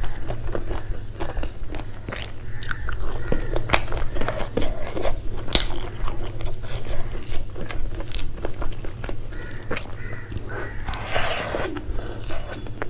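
Close-miked chewing of a mouthful of rice and spicy fried shrimp eaten by hand, with wet mouth smacks and many short, sharp crunchy clicks.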